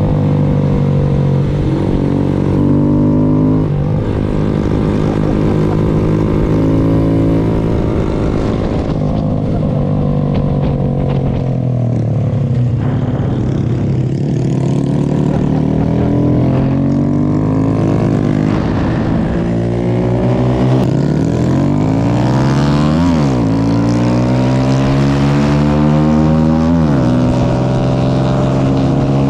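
Honda Grom's small single-cylinder engine running hard on the road, its pitch rising and falling as it accelerates, backs off and shifts, with a sharp drop and climb in revs near the end.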